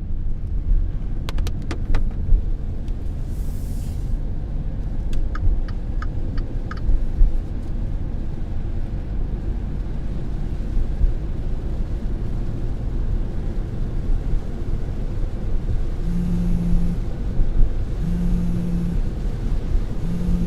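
Steady low rumble of a car interior, with a few clicks and short blips in the first seconds. From about three-quarters of the way in, a phone vibrates in one-second buzzes about every two seconds: an incoming call.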